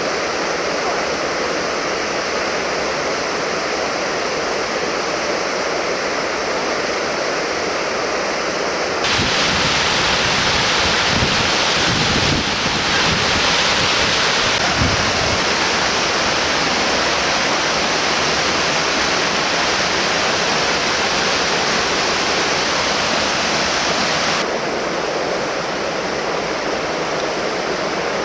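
Ryūmon Falls waterfall: a steady, constant rush of falling water. About nine seconds in it abruptly becomes louder and fuller, with a low rumble for a few seconds, and it drops back to the earlier level a few seconds before the end.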